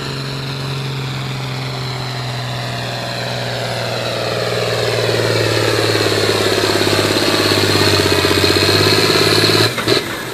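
John Deere 4250 tractor's engine running hard under load while pulling the sled. It holds steady at first, then grows louder and more strained over several seconds, and drops off suddenly near the end.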